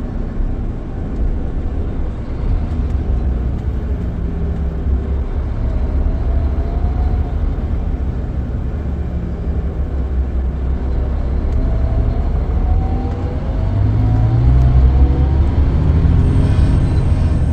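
Scania K440EB coach running under way, heard inside the cabin: a steady low engine and road rumble with a faint tone that climbs in pitch several times as the engine pulls, growing louder from about three-quarters of the way through.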